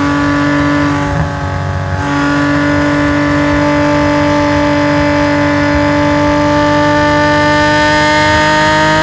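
Race-tuned Nissan S20 twin-cam straight-six of a Hakosuka Skyline GT-R running hard through its stainless equal-length exhaust. The note briefly drops in loudness about a second in, then the pitch climbs slowly and steadily as the car accelerates.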